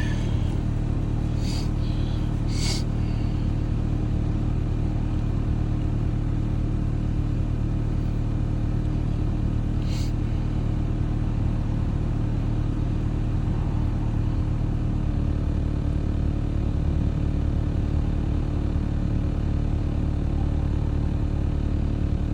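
Nissan VQ35DE 3.5-litre V6 idling steadily while misfiring on cylinder 3. A few short clicks sound over it, two near the start and one about ten seconds in.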